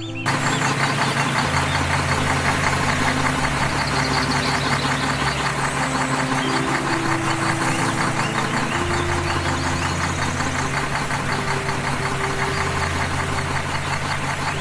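Tractor engine sound chugging steadily at a fast, even rate, with low held tones stepping between pitches underneath.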